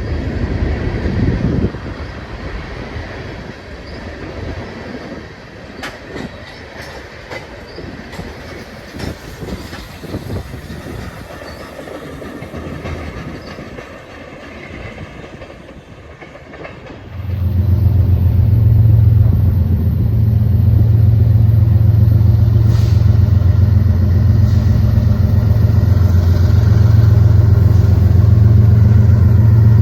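Railroad cars rolling past, their wheels clicking over the rail joints. About halfway through, a much louder, steady low engine rumble starts up and carries on.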